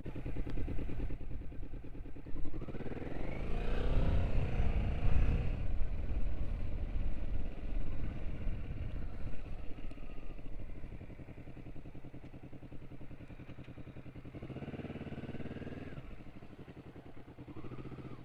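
Motorcycle engine under way, its pitch rising as the bike accelerates about three seconds in. It then settles to a steadier, quieter run, with a shorter rise in pitch in the second half.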